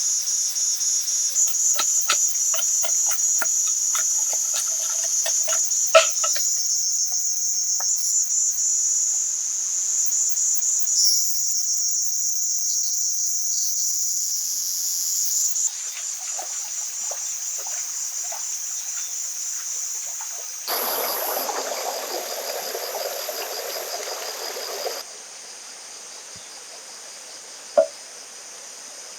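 Loud, shrill insect chorus, a fast pulsing high buzz of crickets or cicadas, with scattered light taps and knocks in the first several seconds. The chorus shifts abruptly a few times, a rushing noise joins it for a few seconds about three-quarters through, and it drops to a quieter background near the end.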